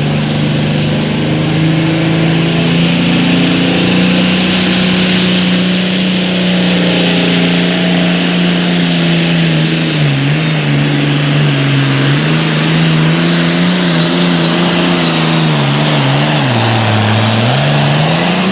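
Super Farm class pulling tractor's turbocharged diesel engine running flat out under load, with a thin high whine rising in pitch over the first several seconds. Its pitch holds steady, then wavers and dips about ten seconds in and sags lower near the end as the engine is pulled down under the sled's load, and it stops abruptly at the very end.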